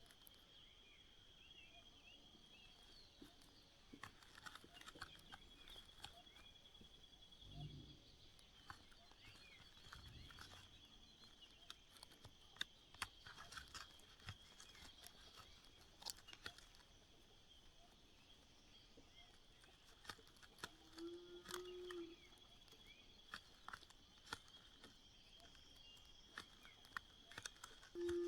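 Faint outdoor nest-side ambience: a steady high-pitched hum, scattered small clicks and rustles, and a short low pitched call about three-quarters of the way through, with another at the very end.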